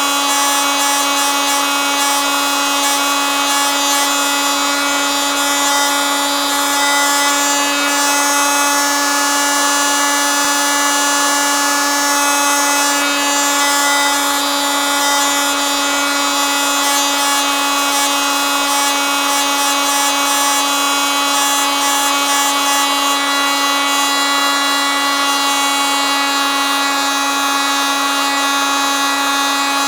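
Oscillating multi-tool running continuously: a steady, unchanging buzz with a strong low pitch and many overtones above it.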